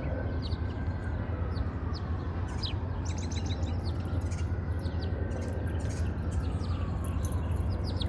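A flock of small birds chirping, many short high chirps with a quick run of them about three seconds in. Under them run a steady low rumble and a faint tone that slowly rises and falls twice.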